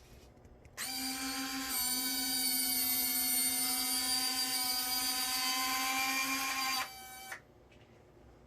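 Electric retractable landing gear of a Freewing MiG-29 RC jet extending: the small retract motors give a steady whine for about six seconds, with a slight shift in pitch early on, then stop with a short click.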